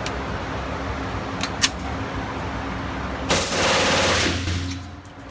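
Gunfire at a shooting range. One sharp shot comes about a second and a half in, then a dense burst of firing lasting about a second, a bit past the three-second mark.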